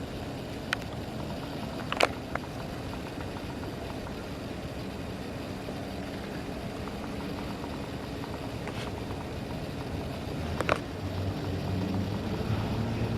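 Steady outdoor city background of distant vehicle noise, with a few sharp clicks. A low engine hum rises near the end.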